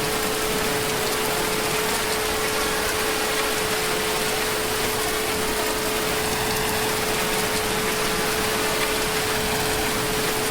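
Heavy, steady rain falling without let-up, with a constant hum held on one pitch underneath it.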